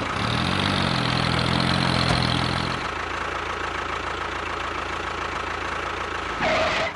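An engine idling, with a steady pitched note for about the first three seconds, then settling into a quieter, even running sound. A short louder sound breaks in near the end.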